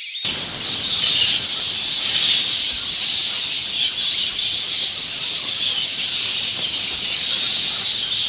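A colony of bats chattering and squeaking: many shrill calls overlap in a continuous din.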